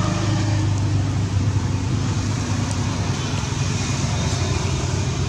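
Steady traffic noise: a low engine hum under an even wash of road noise.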